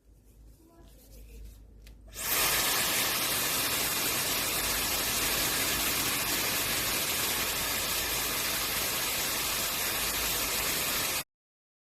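Laifen SE high-speed hair dryer switched on about two seconds in, blowing with a loud, steady rush of air, then stopping abruptly near the end.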